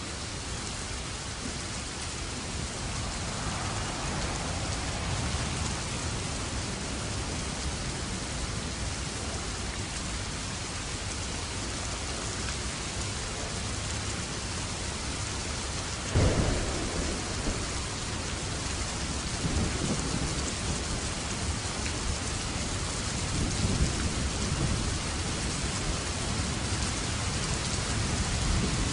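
Steady heavy rain falling, with a sharp thunderclap about halfway through followed by rolling rumbles of thunder.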